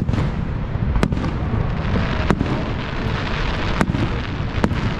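Aerial firework shells bursting in the sky: about five sharp bangs, a second or so apart, over a steady low rumble.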